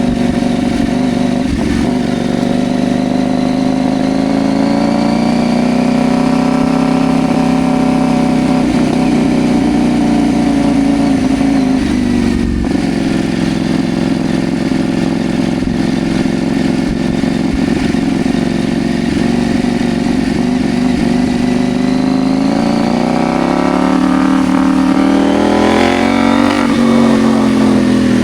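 CFMoto Ibex 800 T motorcycle's parallel-twin engine running under way, its revs slowly rising and easing off. There is a short break in the note about twelve seconds in, then a climb in revs near the end that drops away sharply.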